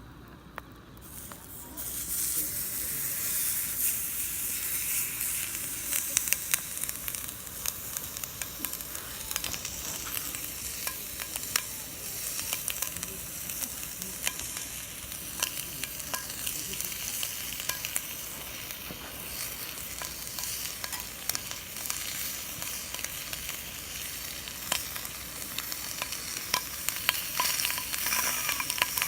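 Food frying in a grill pan over a campfire: a steady high sizzle that comes up about a second and a half in, with frequent sharp pops and crackles.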